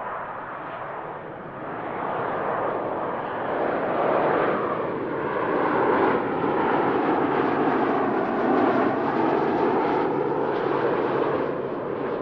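Jet airliner passing close by, its engine roar swelling to a peak partway through with a downward slide in pitch, then easing slightly near the end.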